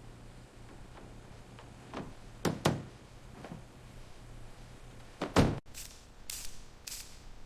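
Several sharp knocks and thuds, two close together about two and a half seconds in and the loudest about five and a half seconds in, followed by a few short swishes.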